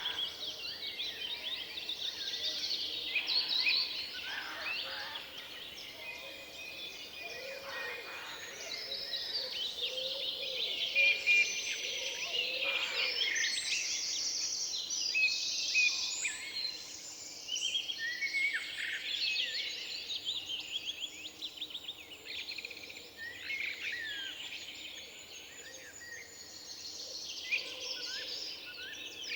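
Woodland birds singing and calling, several at once, in a dense chorus of chirps, trills and short whistled phrases. A few lower calls join in for a few seconds near the middle.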